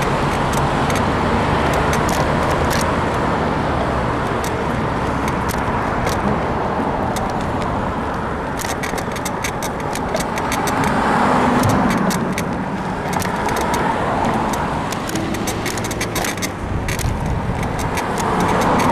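Wind and road noise while riding a bicycle, with a vehicle passing about halfway through. Over the second half comes a quick run of sharp clicks and creaks from the bike, which the rider puts down to a worn suspension bushing in the frame.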